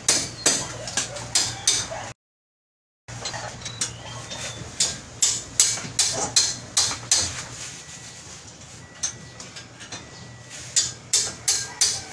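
A run of sharp metallic clicks from hand-tool work on metal, about two to three a second, over a steady low hum. The sound cuts out completely for about a second near the start.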